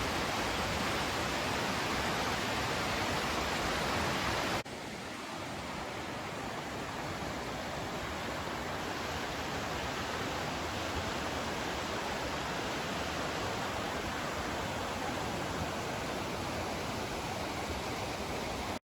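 Steady rush of falling water from a mountain waterfall. About four and a half seconds in it cuts abruptly to a slightly quieter, softer rush.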